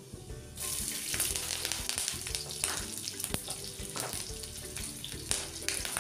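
Garlic cloves and sliced green chillies hitting hot mustard oil and cumin seeds in a kadhai, sizzling loudly from about half a second in, with scattered sharp crackles.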